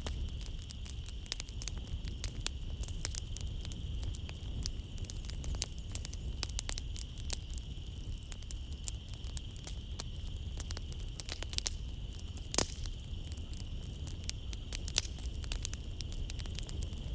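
Wood fire crackling in a fireplace, with irregular sharp pops and a low rumble. One pop about twelve and a half seconds in is louder than the rest. A steady high-pitched drone of night insects runs behind it.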